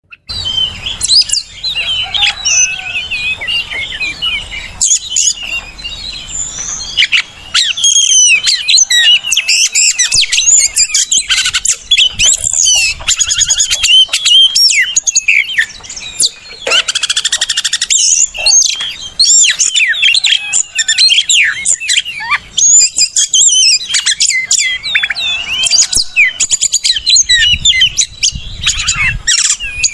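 Oriental magpie-robin (kacer) singing a long, loud, fast run of varied whistles and chirps. This is lure song (pancingan) meant to set other kacers singing.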